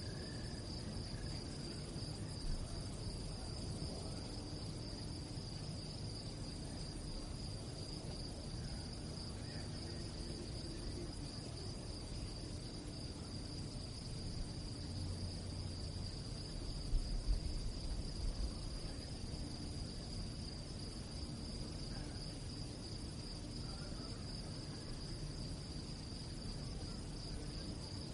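Crickets chirping at night in a steady, high-pitched, fast-pulsing trill that never breaks. A few low bumps come a little past halfway.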